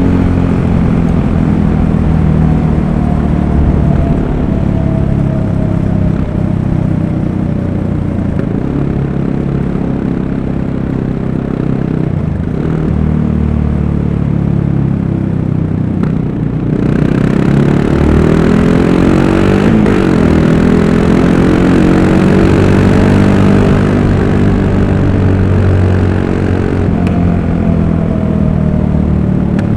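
Yamaha MT-03's 660 cc single-cylinder engine running while the bike is ridden through traffic, its note rising and falling with the throttle, over a steady road-noise hiss.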